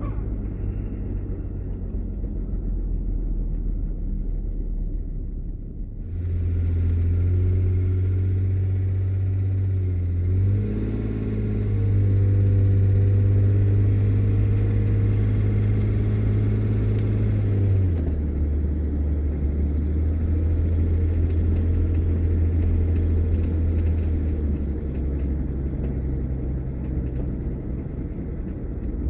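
A road vehicle's engine heard from inside the cab, first running low and quiet. About a fifth of the way in it pulls harder with a louder, deeper drone. The note steps up once, as at a gear change, then drops in two steps further on as the engine eases off.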